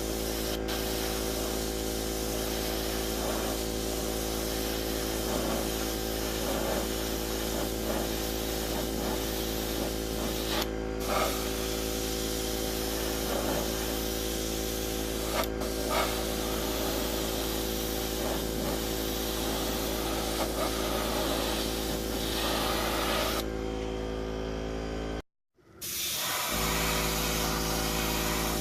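Airbrush spraying black polyurethane primer: a steady hiss over a constant hum. It cuts out abruptly for about a second near the end, then resumes.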